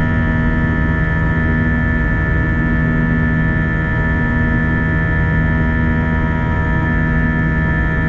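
Airbus A321 cabin in the climb after takeoff: a steady jet-engine and airflow drone with several steady tones in it. One low tone keeps dropping out and coming back about once a second.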